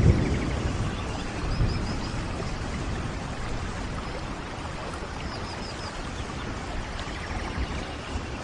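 Steady rainfall, an even hiss of rain. There is a deep low thump at the start, and twice a bird gives a quick run of about four high chirps.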